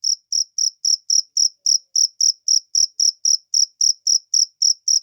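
A cricket chirping in a steady, even rhythm of about four short, high-pitched chirps a second.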